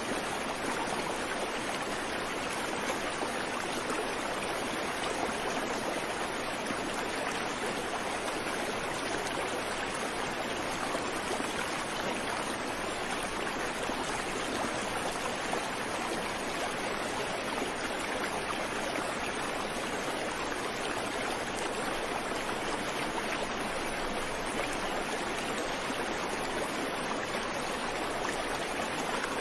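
Creek water running over rocks in a steady, even rush, with no birdsong.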